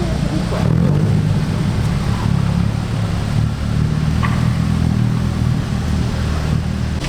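Modified car's exhaust running steadily at low revs, a deep rumble.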